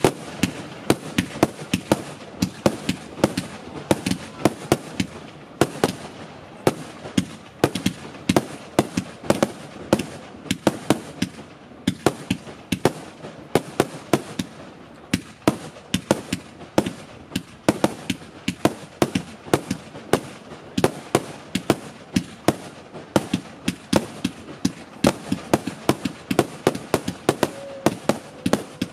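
Consumer firework batteries firing a rapid, unbroken run of shots, several bangs a second.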